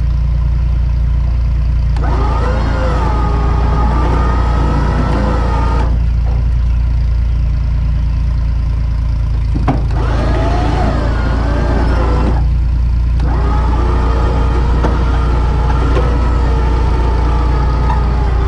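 A vehicle engine running steadily under load while it pushes a tractor. A wavering high whine rides over it, coming in three stretches and dropping out in between.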